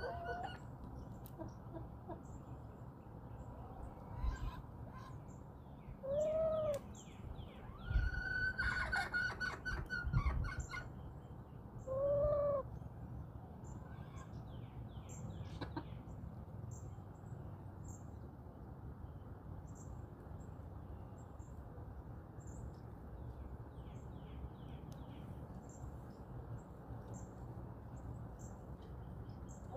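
Backyard hens calling: a few short, rounded calls and one longer call about 8 to 10 seconds in. Small songbirds chirp and trill throughout over a steady low background rumble.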